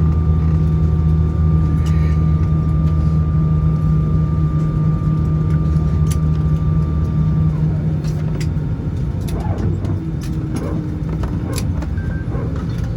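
Airbus A320 cabin noise: a steady low hum with several held tones, which stop about eight seconds in, one tone gliding down as the hum drops. Scattered clicks and knocks follow.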